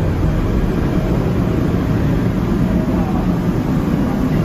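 Metro train running, a steady low rumble with a faint whine.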